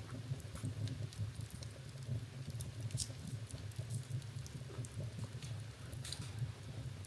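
Wood fire in a fireplace crackling, with scattered sharp pops over a low, steady rumble of flames. Two louder pops come about three and six seconds in.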